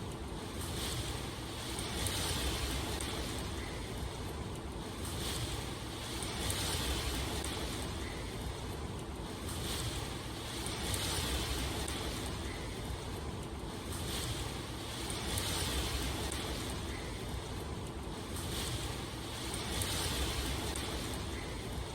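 Steady rain over a low rumble, its hiss swelling and easing every two seconds or so.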